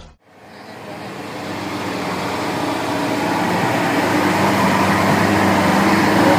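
A lorry's engine running steadily, fading in over the first two seconds or so and then holding a constant level.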